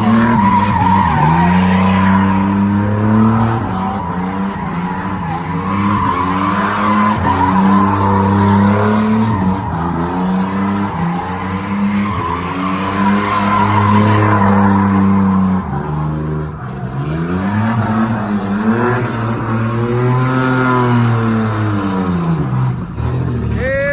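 Car doing a burnout: the engine is held at high revs while the rear tyres squeal steadily. About two thirds of the way in, the revs dip, then rise and fall several times before easing off.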